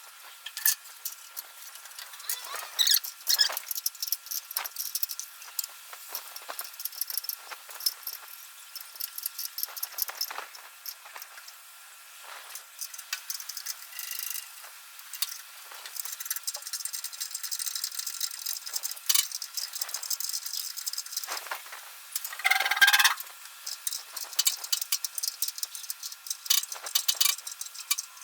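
Scattered metallic clinks and rattles of hand work on the engine as it is levelled on its mounts, with a short squeak near the end.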